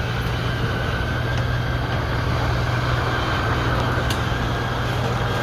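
Electric motor of a motorhome's drop-down cab-over bunk running steadily as the bunk is raised, a constant hum.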